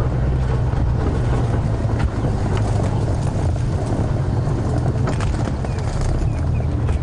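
Safari vehicle's engine running steadily while it drives, a constant low rumble with scattered small knocks and rattles.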